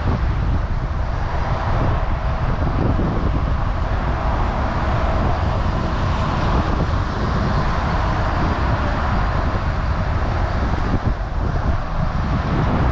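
Steady rush of road traffic with a heavy wind rumble on the microphone, as heard while cycling along a road.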